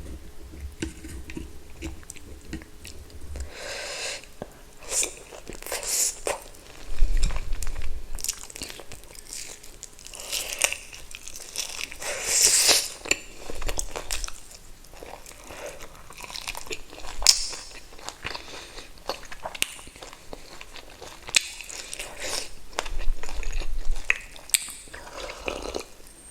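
Close-miked eating sounds: a person biting and chewing spicy pork dumplings and pork ribs, with wet, crunchy-sounding bites and chews coming in irregular bursts, the loudest about a quarter, half and nine-tenths of the way through.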